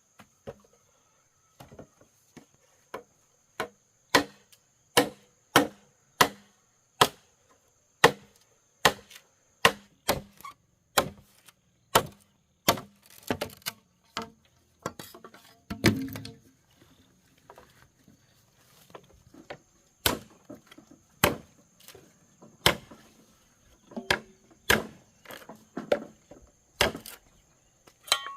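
Bamboo being chopped with a blade: a steady run of sharp strikes, about one or two a second. There is one heavier thud about halfway through and a brief pause after it before the chopping resumes.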